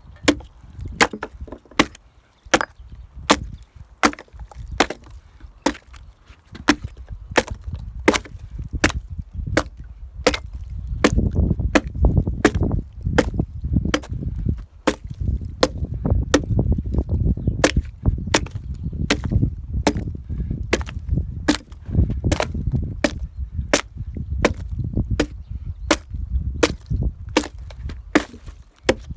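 Hand tool striking wood in a steady rhythm, about one and a half sharp blows a second, as a log is cut and hollowed out into a beehive, with a low rumble under the blows through the middle and later part.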